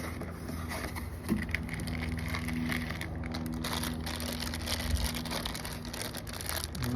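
Packaging rustling and crinkling as kit parts are unwrapped and handled, over a steady low hum.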